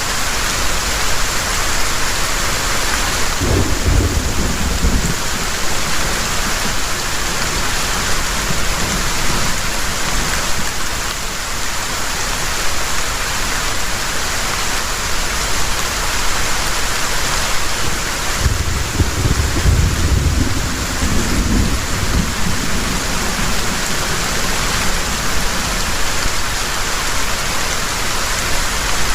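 Heavy rain falling steadily, with two low rolls of thunder, one a few seconds in and a longer one past the middle.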